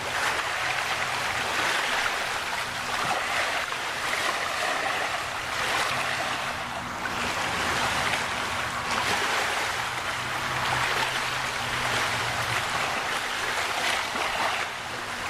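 Steady rushing wash of river water and wind, with a faint steady low hum underneath.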